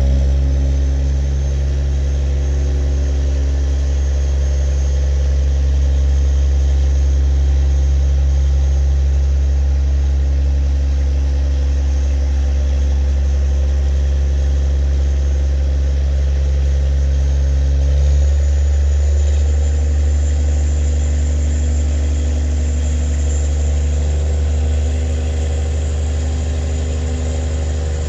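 Towing motorboat's engine running steadily under load, a low, even drone whose pitch shifts slightly partway through.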